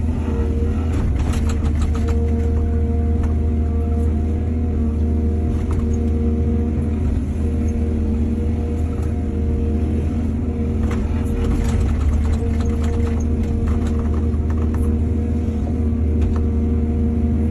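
Heavy diesel engine of an excavator running steadily with a deep rumble, with clusters of clanks and rattles about a second in and again past the middle.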